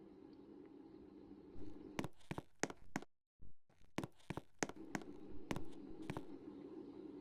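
Candy washing machine running with a steady low hum. From about a second and a half in, there is a run of sharp clicks and knocks, and the sound cuts out completely for a moment about three seconds in.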